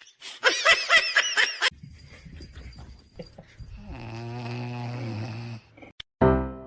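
A pet snoring: one low, drawn-out snore lasting about a second and a half, after some bouncing cartoon 'boing' sound effects at the start. Piano music starts near the end.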